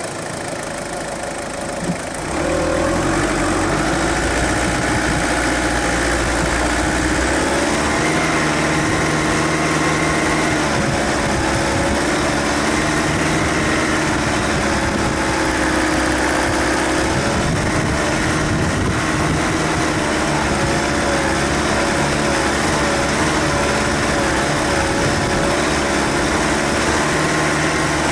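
Suzuki Grand Vitara 2.0 turbo-diesel engine running at low revs as the 4x4 drives along a dirt track, heard from a camera on the bonnet. The pitch wavers gently, and the sound grows louder about two seconds in.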